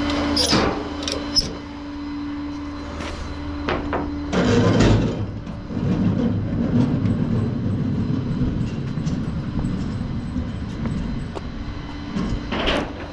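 Flatbed tow truck machinery working: a few sharp clicks over the truck's steady hum, then about four seconds in a rumbling, grinding run of the bed or winch mechanism that lasts about eight seconds before stopping.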